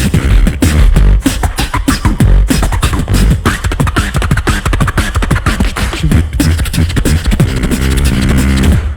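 Live beatboxing through a loud sound system: rapid vocal drum hits and snares over a deep sustained bass. Near the end a pitched vocal bassline comes in, then the beat drops out for a moment.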